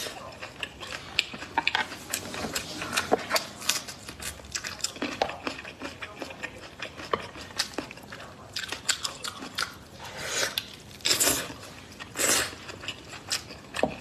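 A person biting and chewing food, mostly braised pork knuckle, with many short wet mouth clicks and crunches, and three louder, longer biting sounds in the last few seconds.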